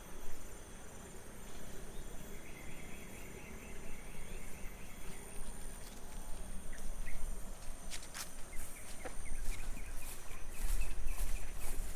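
Rice-field ambience of insects, crickets among them, keeping up a steady high-pitched drone, with a quick run of chirps a couple of seconds in. In the second half, footsteps on the path add clicks and scuffs and grow louder.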